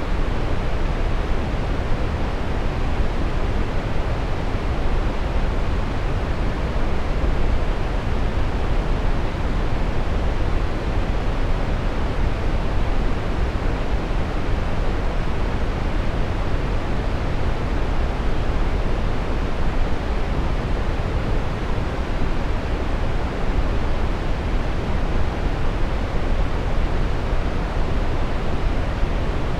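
Steady brown noise: an even, unchanging rush of noise weighted toward the low end, with no events or changes.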